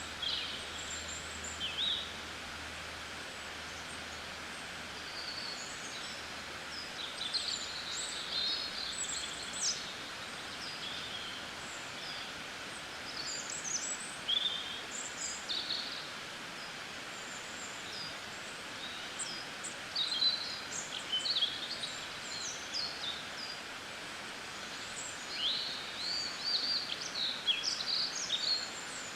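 Small songbirds chirping and calling in short, quick, high-pitched notes, several overlapping at times, busiest near the middle and end, over a steady background hiss.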